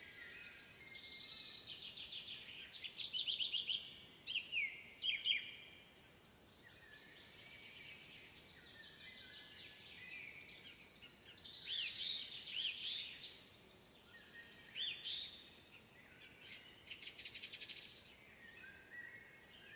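Several songbirds singing in a spring woodland, overlapping phrases of rapid trills and quick downward-sweeping notes, with louder bursts about a few seconds in and again past the middle.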